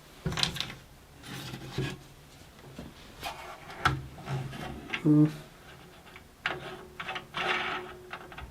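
Hands working at a bandsaw's blade-tension adjuster: intermittent metal scraping and rubbing with scattered knocks, and denser scraping near the end.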